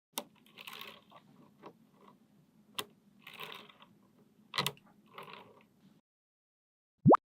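Magnetic balls clicking together in sharp snaps, with short rattling runs between them as balls are set into place. Near the end comes a brief, loud rising tone.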